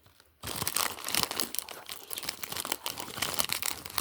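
Packaging crinkling and crackling as it is handled during an unboxing, starting about half a second in and going on without a break.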